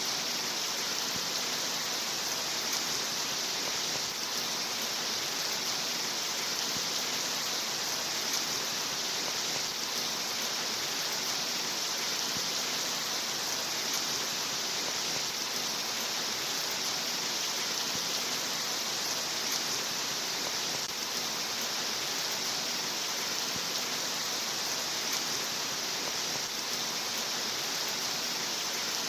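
Steady rain falling, an even, unbroken hiss that never rises or falls.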